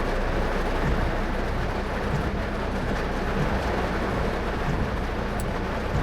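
Steady road and tyre noise of a car driving on wet roads in heavy rain, heard inside the cabin as an even rumble and hiss.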